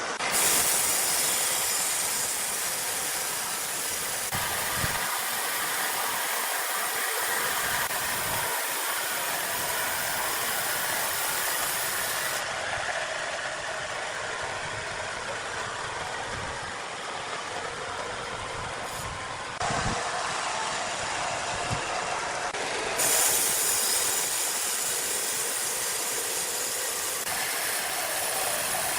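Sawmill machinery running with a steady, loud hiss of noise that shifts abruptly several times.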